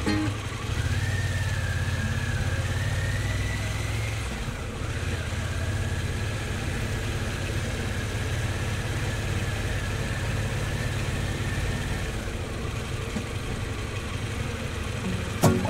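Harley-Davidson Pan America's 1250 cc V-twin running at low, steady road speed, a low rumble with a faint thin whine above it. A few sharp clicks come near the end.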